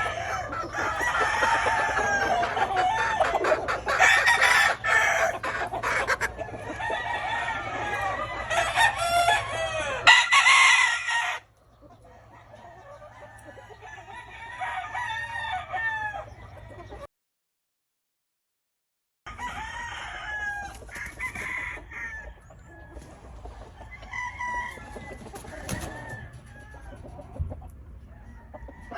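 Many gamefowl roosters crowing and chickens clucking at once. Loud for the first eleven seconds or so, then fainter, with a two-second silence about seventeen seconds in.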